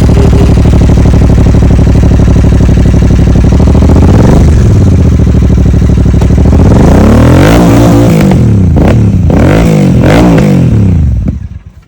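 Royal Enfield Super Meteor 650's parallel-twin engine running loud through an aftermarket Tornado exhaust. It idles steadily, is blipped once about four seconds in, then revs in a string of quick throttle blips from about seven to ten seconds. The sound drops away just before the end.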